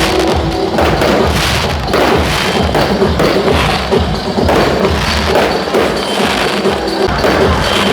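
Fireworks shells bursting in quick succession, a series of heavy thuds roughly one every half second to a second, with music playing underneath.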